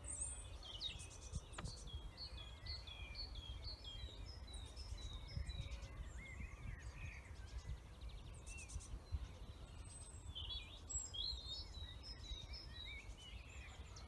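Songbirds singing, several overlapping songs with a run of short repeated falling high notes early on and varied warbling later, over a steady low background rumble.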